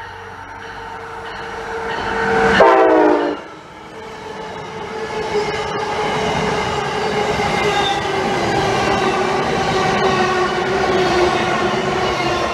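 A train sounding its multi-note horn as it approaches at speed, the chord growing louder and then dropping sharply in pitch as it passes about three seconds in. The rush of the passing train follows, with a held tone over it.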